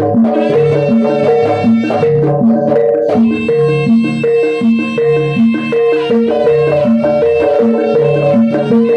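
Javanese traditional music, likely a gamelan ensemble, with pitched percussion playing a brisk, evenly repeating pattern of notes.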